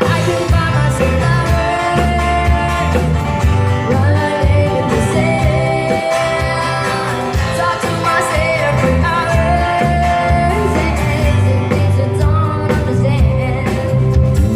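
Loud amplified live band music with a singer's voice over a strong, steady bass line.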